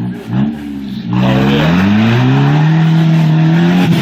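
Jeep Wrangler TJ engine revving: a brief lower dip, then the revs climb sharply about a second in and are held high before easing off at the very end, as the Jeep works its way up a waterfall.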